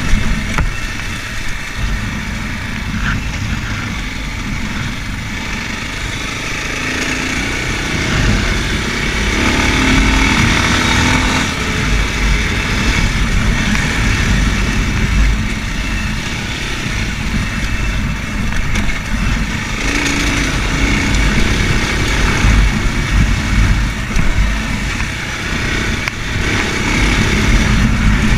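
Racer Panther 300 enduro motorcycle engine running under way, its pitch rising and falling with the throttle, over a steady rush of wind and road noise.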